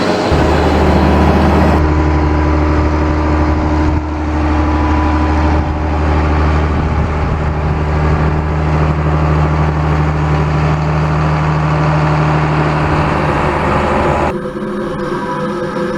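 Large John Deere tractor diesel engines running steadily with a deep, even hum, in spliced clips: the engine sound changes abruptly about two seconds in, at four seconds, and again near the end.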